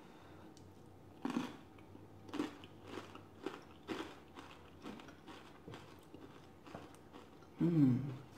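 Close-up chewing of a mouthful of chili with Fritos corn chip scoops, with crunches coming about once a second. Near the end comes a short hummed "mmm".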